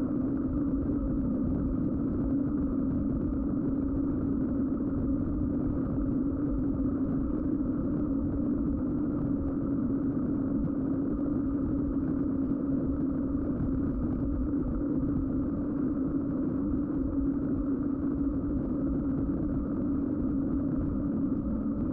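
Schwalbe winter tyres on a mountain bike humming steadily on the road at an even speed, with wind noise mixed in.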